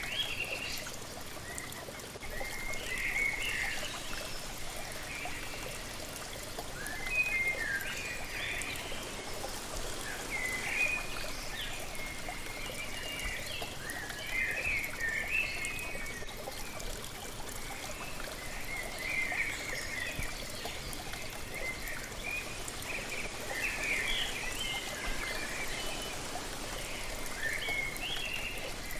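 Waterfall water splashing and trickling steadily, with songbirds chirping in short bursts of calls that recur every few seconds.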